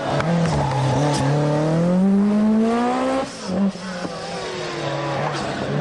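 Group B rally car engine at high revs, its pitch climbing steadily for about two seconds, then dropping sharply about three seconds in before pulling on again.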